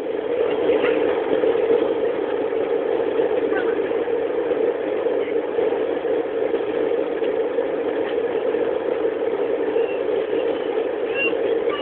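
Jet airliner engines at takeoff power, heard inside the passenger cabin as a loud, steady rushing noise during the takeoff roll.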